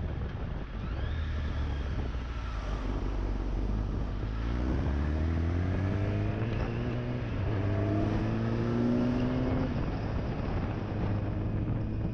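Kawasaki ZX-10R's inline-four engine accelerating hard, its pitch rising through one gear from about four seconds in, dipping at a gear change, then rising again before the throttle eases near the end. Wind rushes over the microphone throughout.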